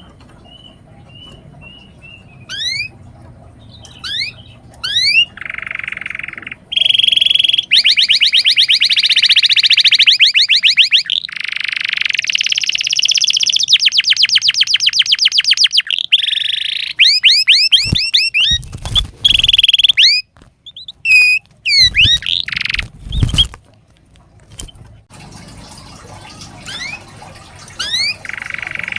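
Domestic canary singing a long, varied song: rising whistled notes, then fast trills and rolls in quick succession, with a few dull thuds around the middle.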